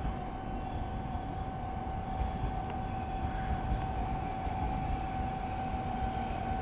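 Echizen Railway train running with a steady high-pitched wheel squeal over a low rumble, a steady lower tone beneath, the whole slowly getting louder.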